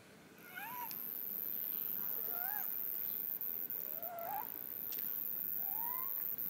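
A bird calls repeatedly, giving short chirps that rise and then fall, about one every second and a half, over a steady, very high-pitched whine.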